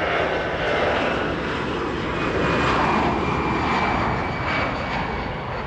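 Fixed-wing aircraft engines running: a steady rushing noise with a faint high whine in the middle.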